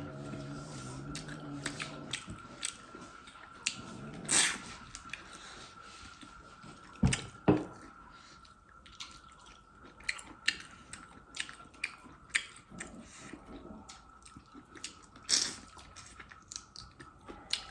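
Close-miked chewing and biting of a person eating, with many short, sharp wet mouth clicks and smacks. A faint steady high whine runs underneath.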